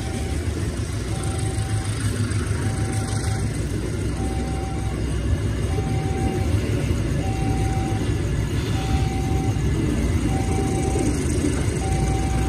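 Passenger coaches rumbling steadily along the rails as the train pulls out. Over it, a level-crossing warning alarm sounds a short tone about once a second.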